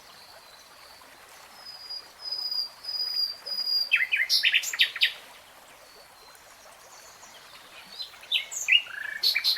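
Songbirds singing: a run of four level, high whistled notes, then a quick burst of fast chirps about four seconds in, and more chirps near the end.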